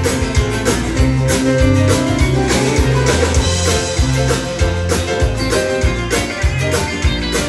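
Live band playing an instrumental break in a country-style gospel song, with bass and drums keeping a steady beat under the melody.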